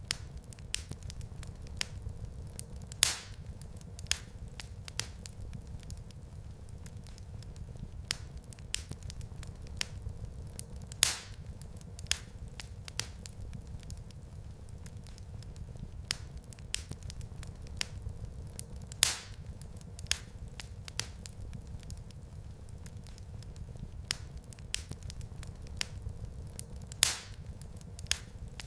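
Wood fire crackling in a fireplace: a steady low rumble of flames with frequent small snaps, and four louder pops about eight seconds apart.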